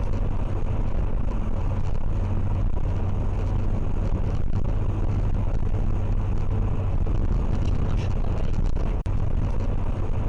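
Steady road and engine noise of a moving car picked up by a dashcam, with a constant low hum. The sound drops out for a moment about nine seconds in.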